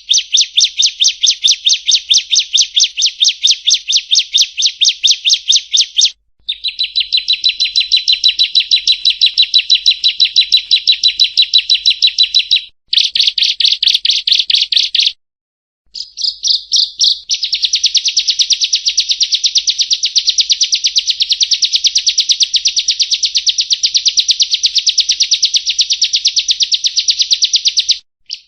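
Bar-winged prinia singing its rolling song: long runs of rapid, evenly repeated high chipping notes, broken by a few short pauses.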